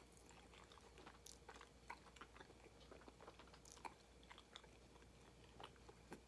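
Faint chewing: a man chewing a mouthful of chicken meatball sub, with irregular small mouth clicks.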